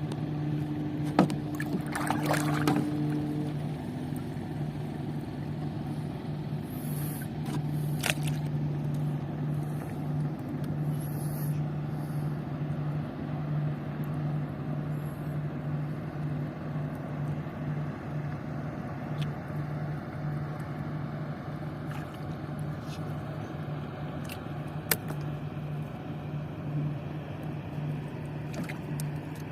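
Small fishing boat's engine running at a steady speed, with a few sharp clicks and knocks on board.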